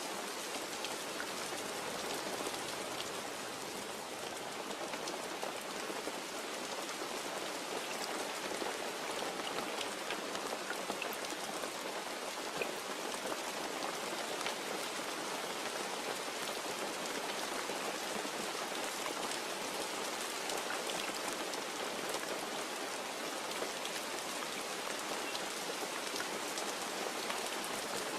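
Steady, even rain falling, with individual drops ticking close by. No thunder.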